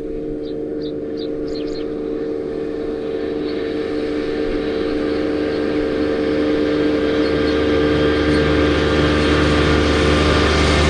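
Case IH Maxxum 150 tractor running steadily while pulling a disc mower-conditioner through alfalfa, a steady engine drone that grows slowly louder, with a few faint high chirps in the first two seconds.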